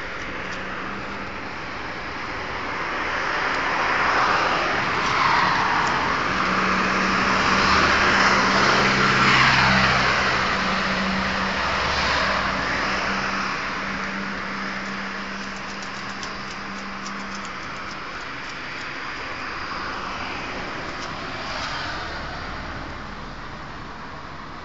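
Road traffic: vehicles passing, the noise swelling to a peak about ten seconds in and then fading, with a low steady engine hum in the middle stretch.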